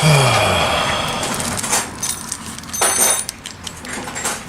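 Metal hand tools clattering against each other, with a sharper clink and brief metallic ring about three seconds in.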